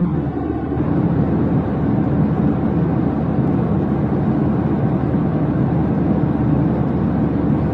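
Steady low rumbling noise of a running engine or vehicle, unchanging throughout.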